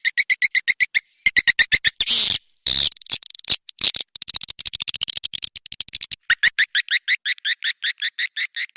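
Recorded edible-nest swiftlet lure calls: a rapid chirping twitter of about eight to ten chirps a second. About a second in it breaks into a stretch of harsh, noisy bursts, and about six seconds in a new, evenly pulsed chirp series starts.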